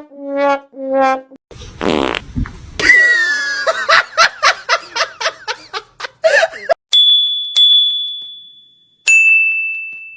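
A run of comic sound effects: three short low honks, a whoosh, a quick series of sharp knocks, then two high bell-like dings that ring on and fade.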